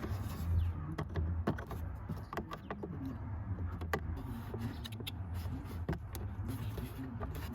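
Scattered light clicks and knocks of hands working the plastic glove box and cabin-filter housing in a Toyota RAV4, over a low steady rumble.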